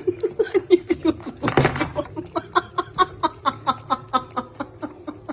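A person laughing hard in rapid, even bursts, about five or six a second, with one louder burst of laughter about a second and a half in.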